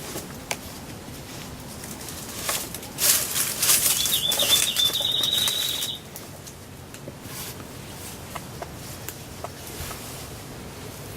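Wild turkey's wings flapping and beating hard for about three seconds, with a short, thin high note sounding over the last part.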